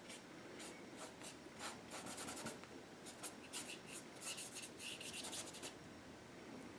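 Paintbrush loaded with acrylic paint brushing over canvas: a run of short, faint scratchy strokes that stop about five and a half seconds in.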